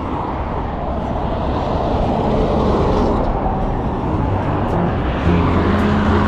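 Steady rushing road and wind noise from a moving vehicle. Low held music notes come in about five seconds in.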